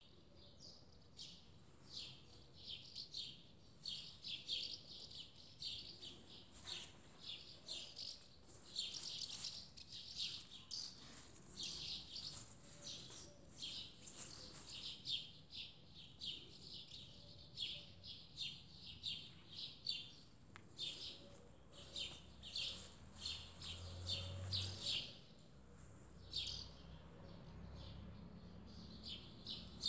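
Small birds chirping, a steady stream of short high chirps, several a second, with brief pauses.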